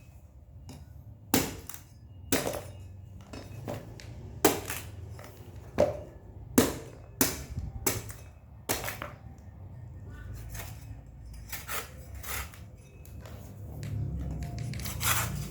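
A blade chopping into the husk of a young coconut: a series of sharp chops, roughly one a second, heavier in the first half and lighter later.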